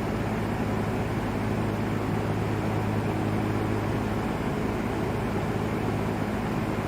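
Vintage LAU Ultra Twenty 20-inch box fan running steadily: an even rush of air from the blades over a low motor hum.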